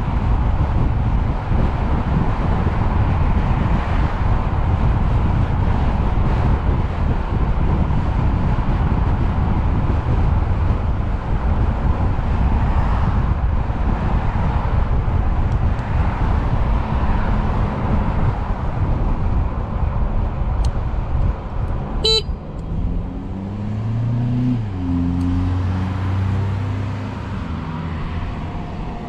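Steady loud rushing noise of traffic or wind on the microphone, with a single sharp click about three-quarters through, then a few seconds of low tones that step in pitch.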